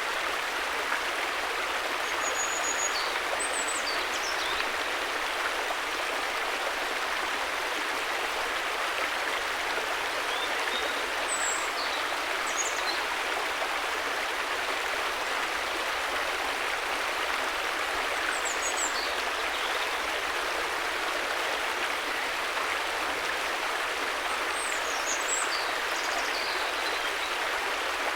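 River water flowing, a steady even rush. Faint short high chirps come through it about four times, a few seconds apart.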